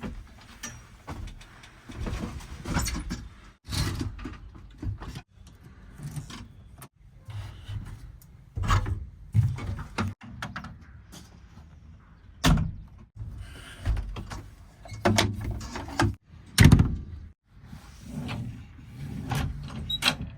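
JCB 3DX backhoe loader's diesel engine working under varying load, with repeated clanks and thuds as it handles mud. The sound breaks off abruptly several times.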